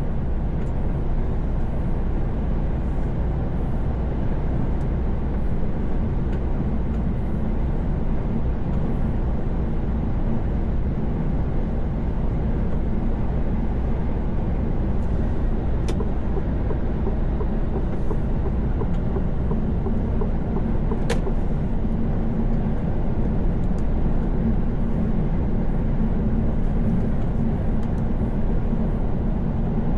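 Steady low rumble of a truck's engine and tyres heard from inside the cab while driving, with two faint ticks partway through.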